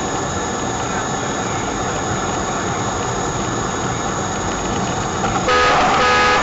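Steady road and engine noise of a moving car, heard through a dashcam. About five and a half seconds in, a louder pitched sound breaks in, pulsing in short bursts.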